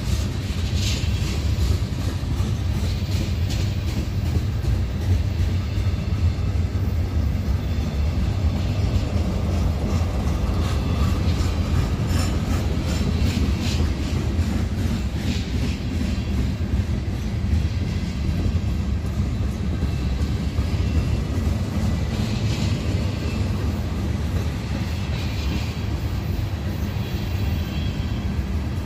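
Union Pacific manifest freight train rolling past: a steady low rumble of freight cars with wheels clicking over the rail joints.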